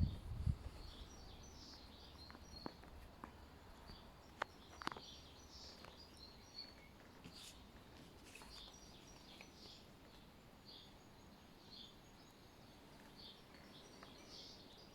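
Faint, irregular bird chirps over low background noise, with a few light clicks in the first few seconds.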